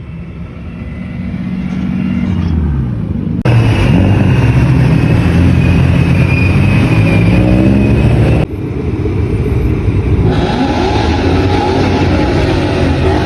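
A car engine and exhaust running under light throttle as the car rolls slowly past, its pitch rising and falling with the throttle. The sound changes abruptly twice, about 3.5 and 8.5 seconds in.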